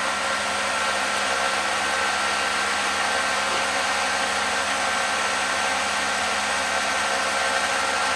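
Steady hum of running machinery: a constant motor-like noise with several fixed tones that does not change.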